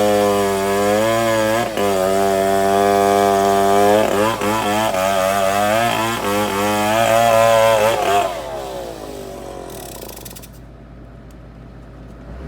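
An engine running hard with a wavering pitch that rises and falls with load. It dies away about eight seconds in, leaving a quieter stretch.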